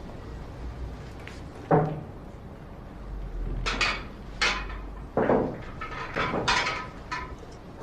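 A series of short knocks and clinks of cups and crockery being handled, the sharpest about two seconds in and several more in quick succession later on.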